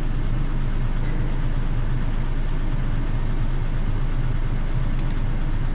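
A vehicle engine idling steadily with a low, even hum, with a couple of faint clicks near the end.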